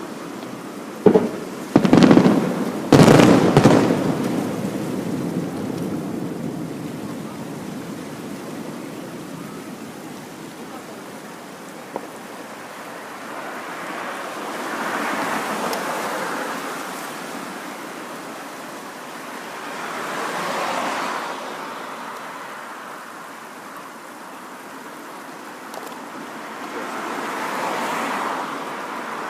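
Fireworks shells bursting in a quick cluster of sharp booms in the first few seconds, each trailing off in a long echoing rumble. After that, a steady rushing background swells and fades three times.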